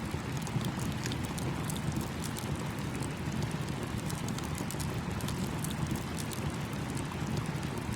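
Campfire crackling with frequent small, irregular pops over the steady rush of a small stream.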